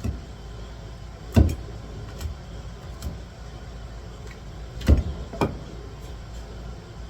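Sharp knocks on a cutting board while seafood is being cleaned: several separate knocks, the loudest about a second and a half in and again near five seconds, over a steady low hum.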